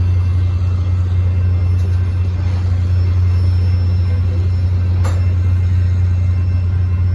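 Covered hopper cars of a Union Pacific manifest freight train rolling past slowly: a steady, loud, low rumble of wheels on rail, with a single sharp clack about five seconds in.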